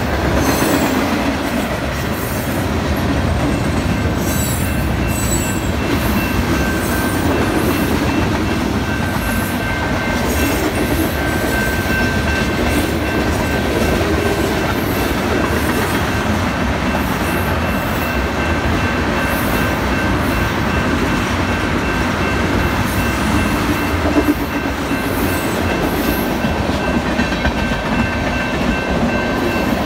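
Freight cars of a long manifest train rolling past at close range: a steady rumble of steel wheels on rail with irregular clicking over rail joints. A thin steady high squeal, typical of wheel flanges on the rail, joins in about ten seconds in and holds.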